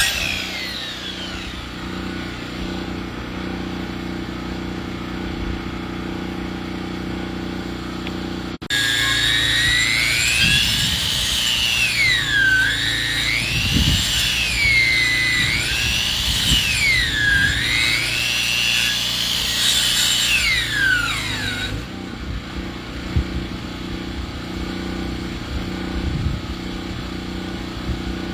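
Sawmill engine running steadily; about a third of the way in a high whine from the saw cutting wood comes in over it, rising and falling in pitch every two seconds or so, and it dies away about three quarters of the way through, leaving the engine alone.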